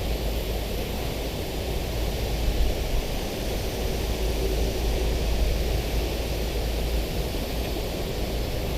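Wind buffeting the microphone, a steady low rumble over an even outdoor hiss.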